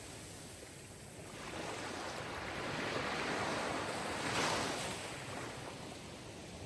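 Sea surf: a wave of rushing water swells up about a second in, peaks, then ebbs away toward the end.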